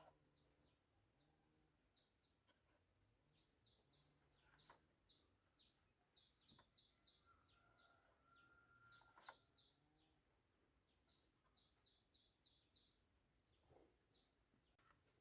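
Faint high-pitched chirping from a small animal, in quick runs of several chirps a second, over near silence, with a few soft clicks.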